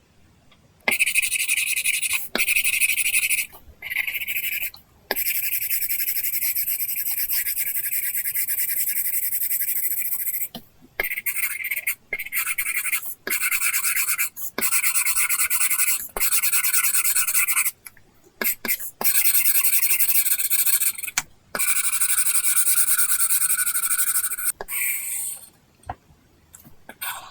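Apple Pencil tip scratching across an iPad's paper-texture screen film in a series of drawing strokes, some short and some held for several seconds, with brief pauses between them.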